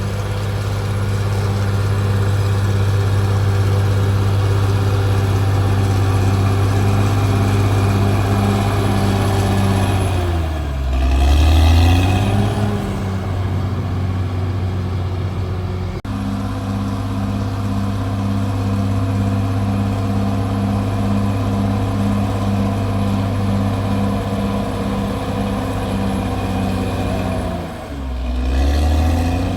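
CAT D6R bulldozer's diesel engine running hard at a steady speed; about ten seconds in and again near the end the engine note sags sharply and then climbs back up.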